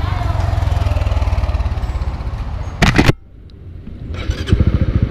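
Honda Winner X 150 cc single-cylinder motorcycle engine running with a fast, even exhaust pulse. A short, very loud burst comes about three seconds in, the sound dips for about a second, and the engine pulse returns louder.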